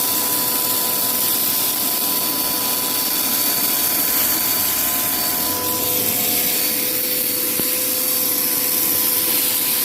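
Vacuum cleaner running steadily with a motor whine, its attachment sucking loose dirt out of a hole.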